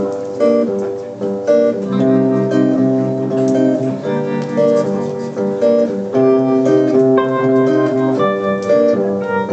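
Instrumental intro of a pop song played live: picked guitar notes over sustained keyboard chords, with no singing yet.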